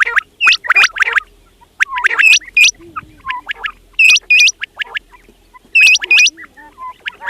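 Quail calling: groups of two or three sharp, high notes, each rising quickly, repeated about every two seconds, with softer lower chirps in the gaps.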